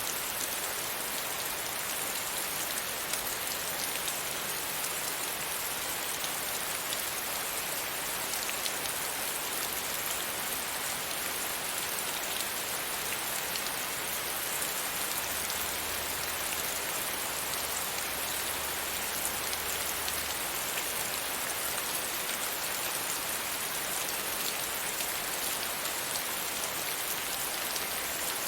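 Steady rain pattering against a window pane, a dense even hiss of many small drop ticks.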